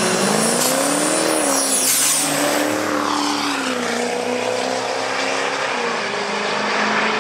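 Turbo-diesel pickup trucks running a drag race down the strip. The engine note climbs in the first second, then drops and settles, with a high whistle rising over the first couple of seconds and fading.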